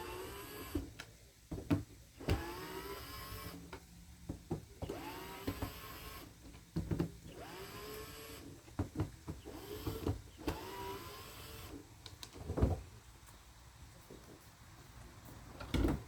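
Cordless drill-driver running in about six short bursts, its motor whine rising in pitch each time it spins up, backing out the screws that hold the kayak's rod holder. Sharp knocks and clatter come between the bursts.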